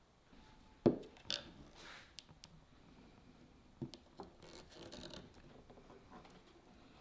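Hand work on wooden parts: a sharp wooden knock about a second in, a few lighter clicks, then quiet scraping and rubbing.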